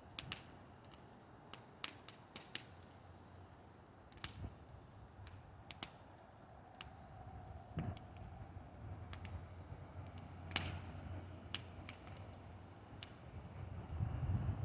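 Bonfire crackling: irregular sharp pops and snaps a few times a second at most, over a low rumble that grows louder near the end.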